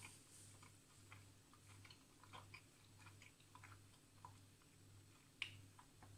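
Faint chewing of a mouthful of Big Mac burger: soft, irregular mouth clicks, with a sharper click about five seconds in, over a low steady hum.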